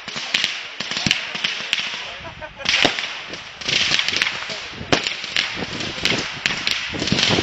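Consumer fireworks going off: a rapid series of sharp cracks over repeated bursts of hissing, the hiss swelling from about three seconds in.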